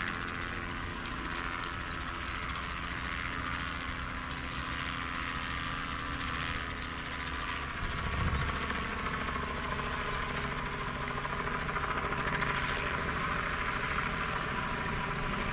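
A steady low engine drone under a hiss of wind, with a short high chirp falling in pitch about five times.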